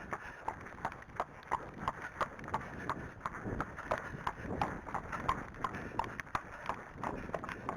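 Arabian horse's hooves clip-clopping in a steady, even rhythm as he is ridden at a trot.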